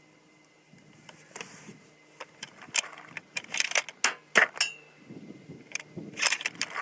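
A run of sharp metallic clicks and clinks, starting about three seconds in, from a bolt-action hunting rifle being handled and reloaded between shots. One clink rings briefly.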